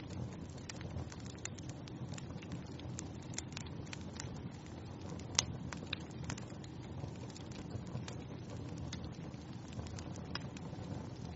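Wood fire in a fireplace crackling: a steady low rumble of flames with irregular sharp pops and snaps, one louder pop about five seconds in.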